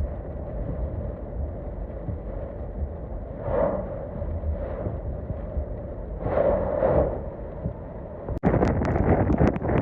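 Storm wind buffeting the microphone, a low rumble that swells louder twice; about eight and a half seconds in it cuts abruptly to a louder, rougher rush.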